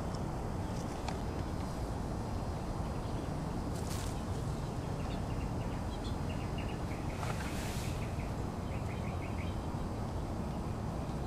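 Outdoor ambience: a steady low rumble, with runs of faint, quick high chirps from a small bird in the second half and two brief rustling bursts.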